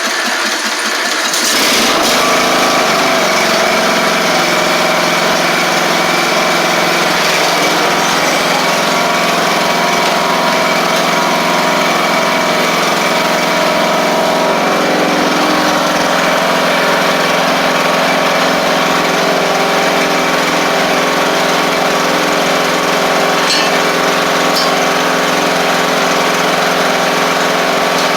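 Craftsman LT1000 riding mower's Briggs & Stratton engine catching and coming up to speed in the first couple of seconds, then running steadily, its pitch shifting slightly about halfway through.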